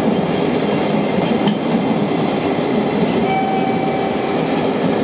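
A train running past at close range: steady loud rail noise of wheels on track, with a thin steady high tone coming in about three seconds in.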